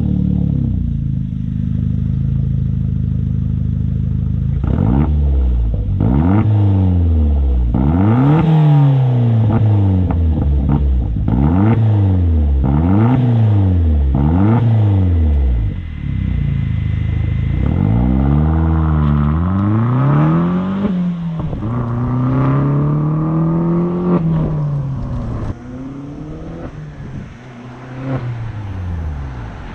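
2007 Opel Corsa OPC's 1.6 turbo four-cylinder, on a custom exhaust with the silencer removed, idling and then revved repeatedly: a quick string of short throttle blips about once a second, then a few longer, slower revs, dropping to quieter running near the end.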